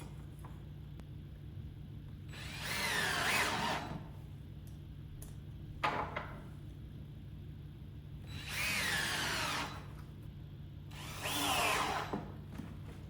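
Power drill driving screws in three runs of a second or two each, its whine dipping and rising in pitch as each screw takes up. A single sharp click comes between the first and second runs.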